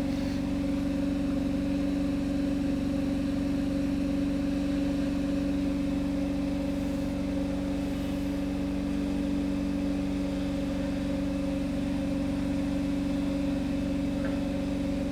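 An engine idling with a steady, unchanging hum.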